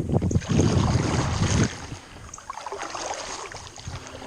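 Wind buffeting the microphone out on open water, heavy for about the first second and a half and then easing to a lighter rustle, with faint small ticks above it.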